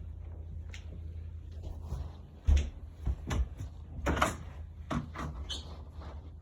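A string of short knocks and clicks, as of household things being handled, the loudest about two and a half seconds in, over a steady low hum.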